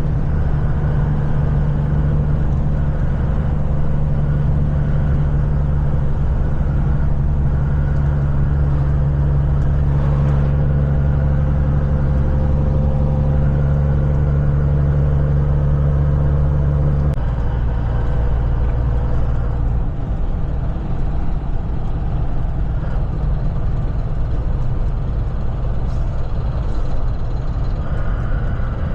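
Kenworth semi-truck's diesel engine running steadily on the road. About 17 seconds in, the engine note suddenly drops lower.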